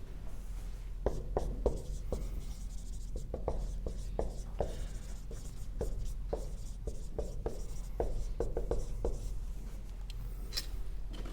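Writing on a board: a run of short, irregular taps and scratchy strokes, over a steady low hum.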